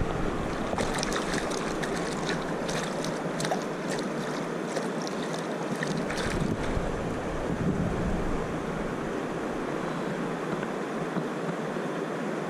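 Eagle River water rushing steadily, with scattered light clicks and splashes in the first half.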